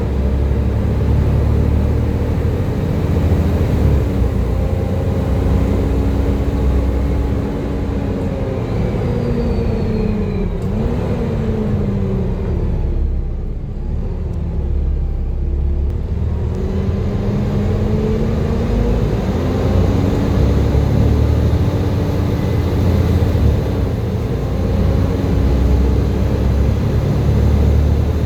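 Volvo B7TL bus's engine and driveline whining: the whine steps down about four seconds in, falls away as the bus slows to a near stop about halfway through, then climbs again as it pulls away, with a gear change near the end.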